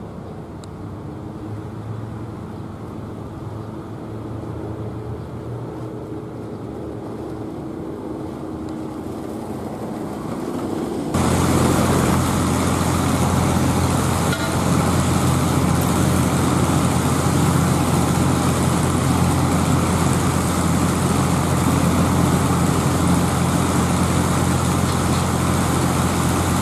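Commuter train approaching, its steady running hum growing louder. About eleven seconds in, this cuts abruptly to a louder steady machine hum with a hissing crackle, from rail welding work on the track.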